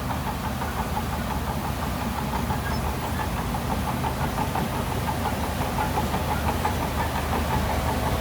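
Heavy diesel engine running steadily at low speed, with a light regular ticking over its low rumble.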